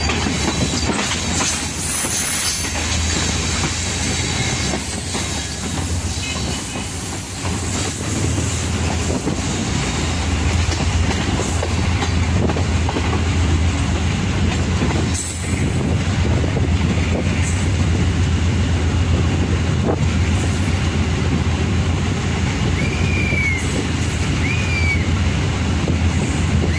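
Passenger train coach running along the track, heard from its open door: a steady rumble of wheels on rails mixed with rushing air, growing a little louder as the train picks up speed. A single sharp knock comes about halfway through, and a few short high squeals come near the end.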